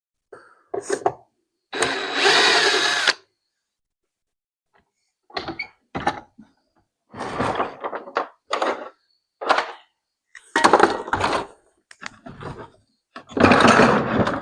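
Cordless drill run in a string of short bursts, stopping and starting again, on a battery that is nearly flat.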